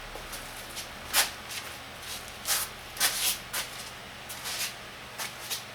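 Handling noise at a workbench: about seven short scuffs, the clearest a little after one second and around three seconds in.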